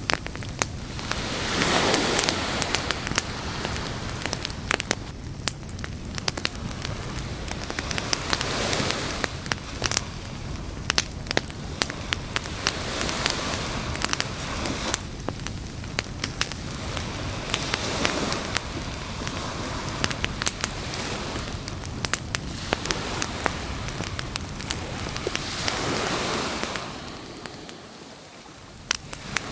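Campfire crackling and popping with many sharp snaps, over beach surf that swells and fades every few seconds as waves wash in.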